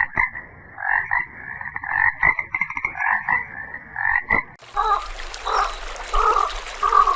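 Frogs croaking: a fast run of repeated calls, changing abruptly about two-thirds of the way through to a lower, slower series of separate croaks.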